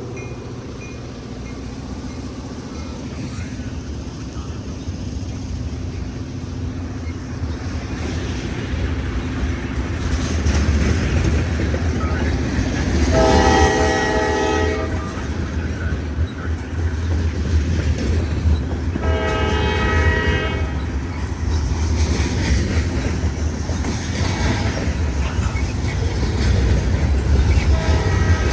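Freight train led by an EMD GP38-2 diesel locomotive passing, its engine rumbling heavily alongside wheel clatter. The locomotive's air horn sounds two long blasts, one about halfway through and another some six seconds later, and a third begins right at the end.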